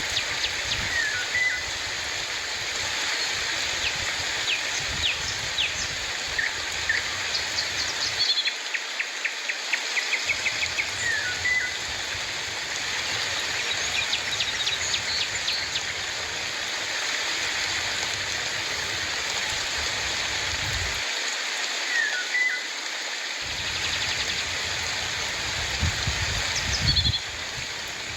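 Steady rain hiss with birds calling over it: quick series of rapid chirps and, a few times, a short falling call.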